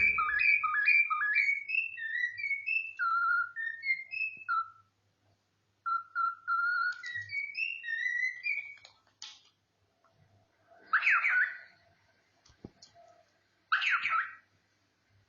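Pet cockatiel whistling: a quick string of short notes that slide upward, then slower single notes after a short pause. Two louder, harsher calls come near the end.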